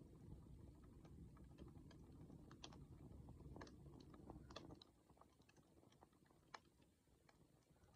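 Wood fire crackling quietly: scattered sharp pops and snaps at an uneven pace over a low rumble, which drops away a little before halfway.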